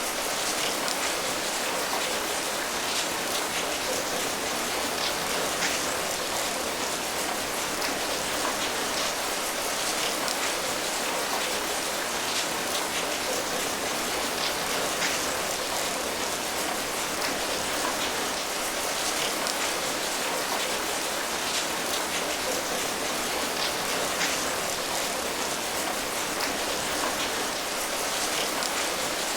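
Steady rain falling, an even hiss with the patter of individual drops ticking through it.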